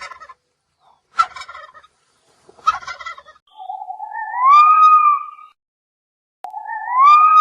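A farm bird calling: three short rattling calls, then two long calls that rise in pitch and hold.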